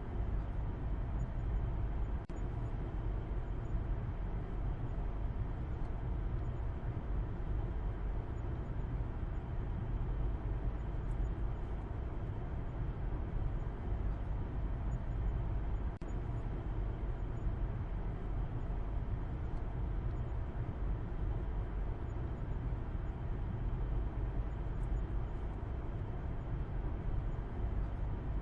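A car driving: a steady, low rumble of road and engine noise with a faint hum above it, briefly dipping twice.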